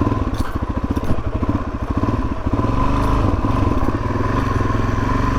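Suzuki DR-Z400S single-cylinder four-stroke engine chugging at low revs, its separate firing pulses plain for the first half, then settling into a steadier drone about halfway through.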